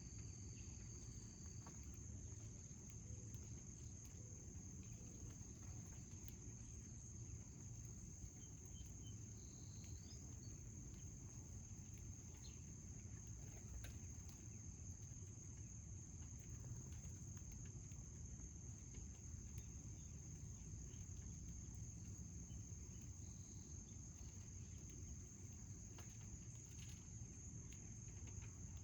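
A continuous, steady high-pitched insect trill, as from crickets, over a low steady rumble, with a few faint short chirps scattered through.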